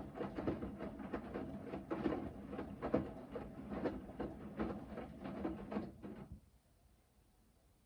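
Hoover VHD 9163 ZI front-loading washing machine in its main wash: the drum tumbling the wet load with sloshing water and irregular soft thuds, then stopping abruptly about six seconds in as the drum pauses between turns.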